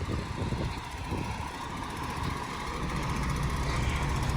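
Semi truck's diesel engine running at low revs while the truck is maneuvered to back a trailer into a loading dock, its low rumble slowly getting louder.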